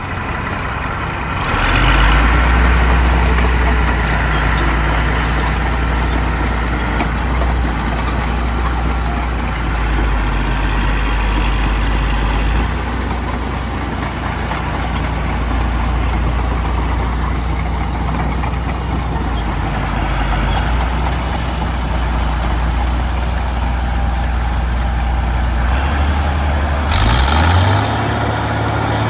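Heavy crawler tractor diesel engines running hard under load, getting louder about two seconds in. Near the end the engine note changes and rises in pitch.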